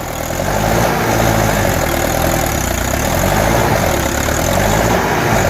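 Mahindra 595 tractor's diesel engine running hard, its revs rising and falling repeatedly as it works to get free of the mud.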